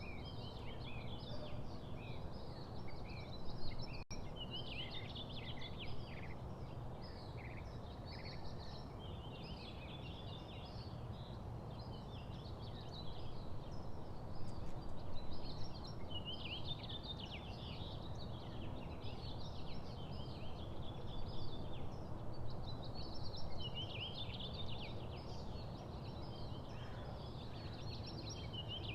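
Small songbirds chirping and twittering in quick clusters of short high notes, with a few pauses, over steady low background noise.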